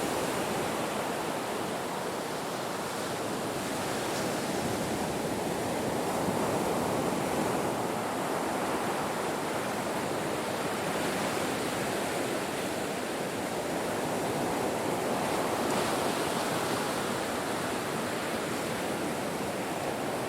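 Ocean surf breaking on a shore: a continuous wash of waves that swells and eases every few seconds.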